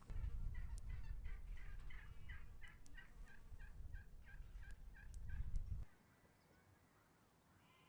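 Domestic fowl calling: a run of short, evenly repeated notes, about three a second, over a loud low rumble. Both stop about six seconds in.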